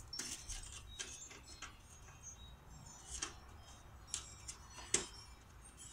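Scattered light clicks and clinks of metal parts being handled as the grass bagger attachment is taken off a riding mower, with the sharpest click about five seconds in.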